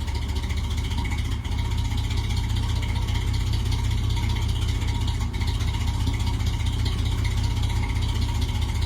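1947 Mack L85 fire truck's engine idling steadily, its sound mostly a deep low note, with no revving.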